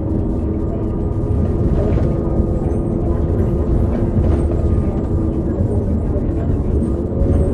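2018 New Flyer XD40 transit bus with a Cummins L9 diesel and Allison B3400xFE transmission, heard from aboard while driving: a steady low drive rumble with a steady whine over it. This is the odd transmission noise that the owner puts down to the transmission bearings, an issue shared by several buses of the series.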